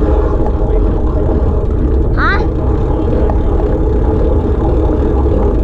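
A loud, steady low rumble, with a brief rising cry about two seconds in.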